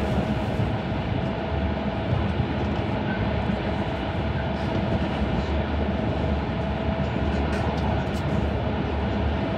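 Running noise of a JR East E5 series Shinkansen heard inside the passenger cabin: a steady, even rumble of wheels on rail and air rushing past, with a faint steady tone over it.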